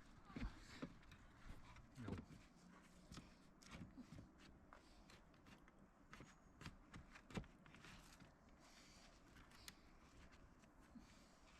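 Near silence, broken by faint scattered clicks and short rustles.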